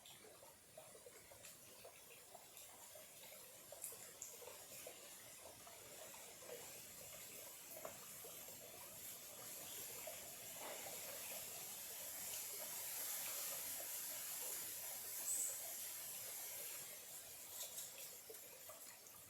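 Small clear stream trickling and burbling, faint and steady, swelling slightly toward the middle. A brief high note sounds about fifteen seconds in.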